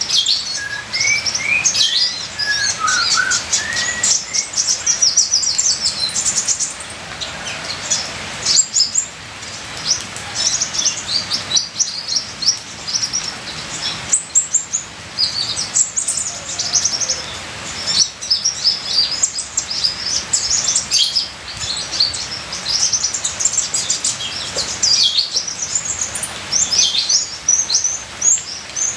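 Olive-backed sunbird (kolibri ninja) singing a fast, continuous stream of high chirps and trills, with a few lower sliding notes near the start, over a steady background hiss of trickling rainwater.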